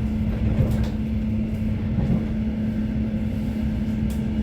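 Regional train running, heard from inside the carriage: a steady low rumble with a constant hum, and a few faint clicks.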